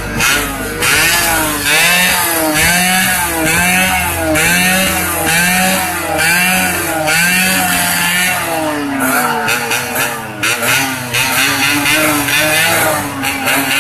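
Yamaha RX-King's single-cylinder two-stroke engine revved hard in quick, repeated throttle blips, the pitch rising and falling again and again.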